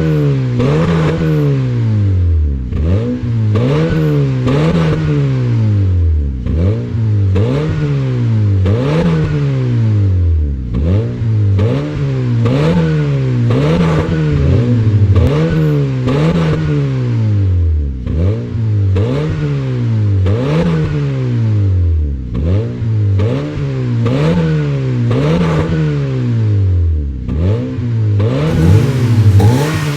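2008 Honda Civic's four-cylinder engine sounding through an aftermarket axle-back exhaust, revved over and over in quick throttle blips, its pitch rising and falling repeatedly.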